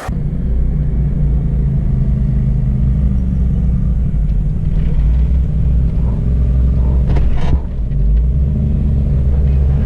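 Jeep engine running under load at low speed, a loud steady low rumble, with a brief knock about seven and a half seconds in.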